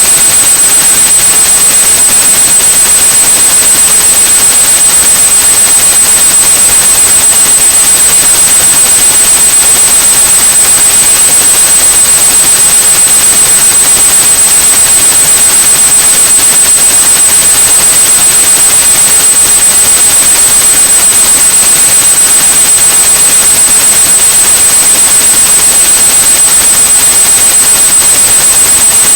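Steady white noise with a continuous high pure tone at about 8100 Hz laid over it, unchanging, loud: a tinnitus-masking sound.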